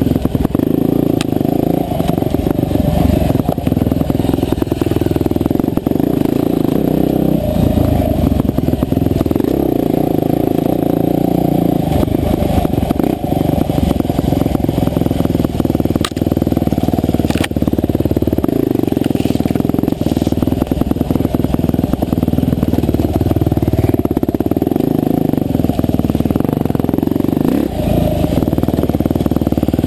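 Husqvarna TE511 single-cylinder four-stroke dirt bike engine running under load on a trail, its revs rising and falling with the throttle. Short knocks and rattles come through the whole time.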